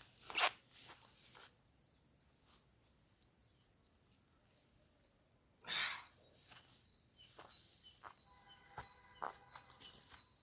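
Outdoor ambience: a steady high-pitched hiss, with a few brief scuffs or rustles of movement, the loudest about half a second in and near six seconds in. Faint thin ringing tones come in near the end.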